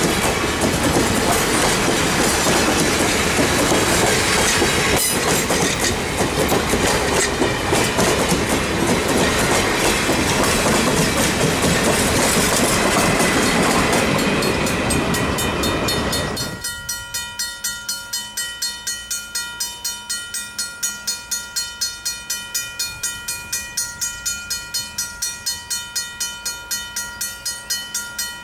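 Train of vintage passenger coaches rolling past close by, wheels clacking over the rail joints. About two-thirds of the way through it cuts to a grade crossing bell ringing steadily, about three to four strokes a second.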